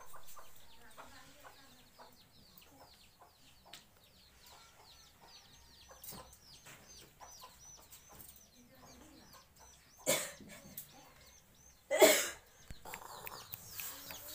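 Small bird peeping steadily: a run of short, high, falling chirps, two or three a second, with two loud bursts of noise about ten and twelve seconds in.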